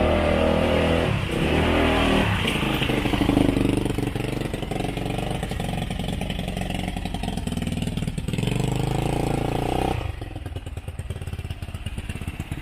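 Dirt bike engine running and revving, its pitch rising and falling, then dropping to a lower, quieter running about ten seconds in.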